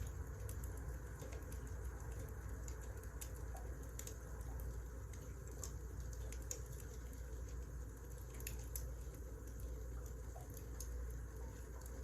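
Firewood burning in a fireplace: irregular crackles and sharp pops over a low, steady rumble of the fire.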